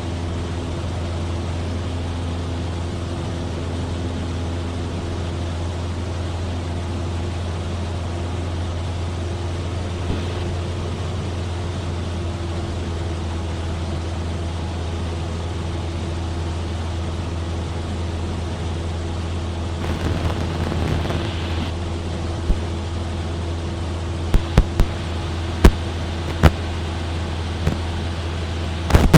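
Cessna 172F's Continental O-300 six-cylinder engine and propeller running steadily in flight, a constant low drone. A handful of sharp clicks come about three-quarters of the way through.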